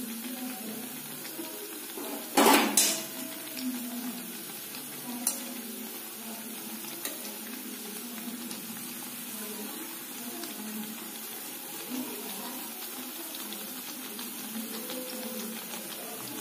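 Chhana jalebi frying in oil in a metal kadai on low flame, a steady gentle sizzle. About two seconds in, a perforated metal slotted spoon clatters twice against the pan, and a few lighter taps follow as the pieces are turned.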